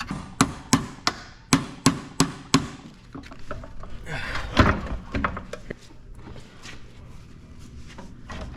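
Metal tool striking at the joint between a transmission bell housing and an engine block to split them: a quick run of sharp knocks, about three a second, for the first two and a half seconds, then a louder, rougher scrape about four and a half seconds in.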